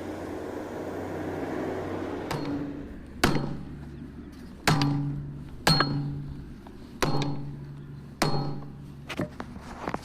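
Hammer blows on a steel truck wheel: about five hard, ringing strikes a second or so apart, then a few lighter taps near the end.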